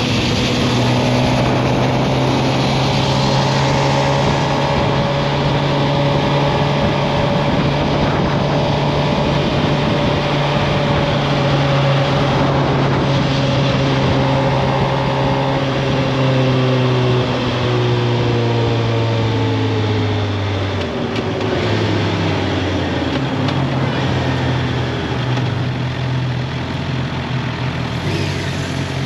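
Suzuki GSX-R 750 inline-four engine running under way at a steady pitch. About two-thirds through, its pitch falls as the bike slows, then it climbs again near the end.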